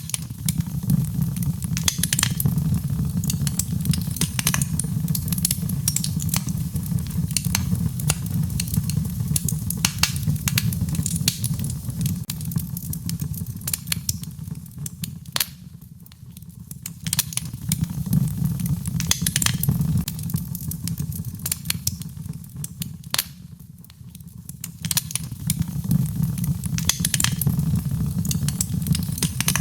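Fireplace fire crackling, with many sharp pops and snaps over a steady low rushing of flames. The fire dies down briefly about halfway through and again about three quarters in, then swells back up.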